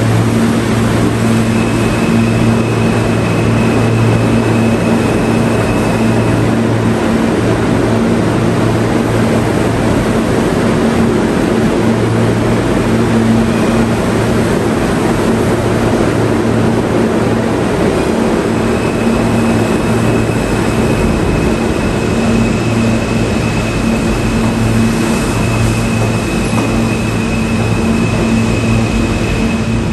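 New York City subway train running steadily: a loud, even rumble with a low hum under it and a faint high whine that fades out a few seconds in and comes back for the second half.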